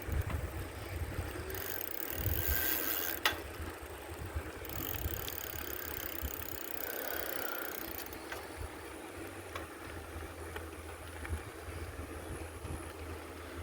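Bicycle riding noise with wind buffeting the microphone as a low rumble, and one sharp click about three seconds in.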